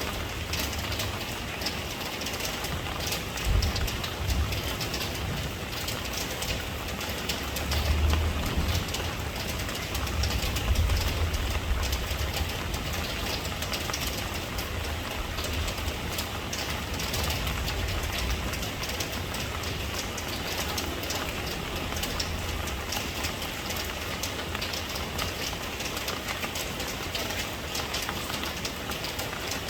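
Steady rain falling, with scattered pattering drops over an even hiss and a low rumble that swells a few times.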